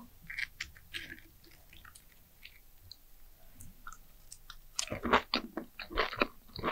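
Someone eating sugar-coated fried sweet potato slices: faint small clicks at first, then from about five seconds in a run of loud, crunchy chewing.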